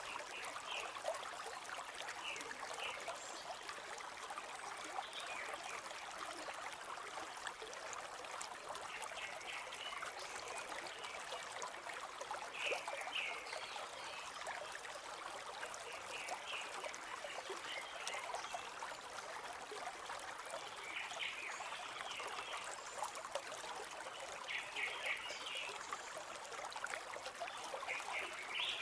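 A forest stream flowing and trickling steadily, with brief high chirping notes every few seconds over the water.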